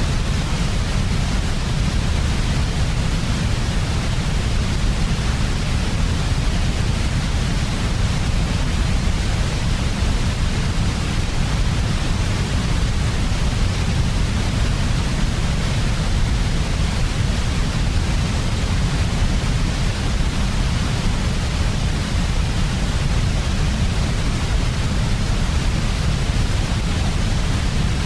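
Synthetic white noise for baby sleep: a steady, unchanging hiss with a heavy low rumble, no breaks or changes.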